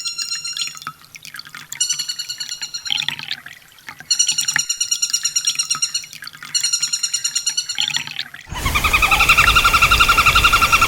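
Sunbird song played as a bird-training track: bursts of rapid, high, repeated trill notes about a second long, with short gaps between them. About 8.5 s in, a louder trilling passage with a steady hiss under it cuts in.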